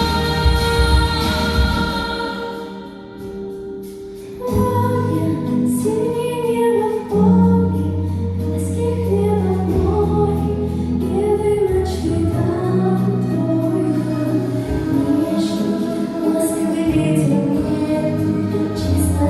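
A girl singing a pop-style song with musical accompaniment. The music thins out about two seconds in, then comes back in with a bass line about four and a half seconds in.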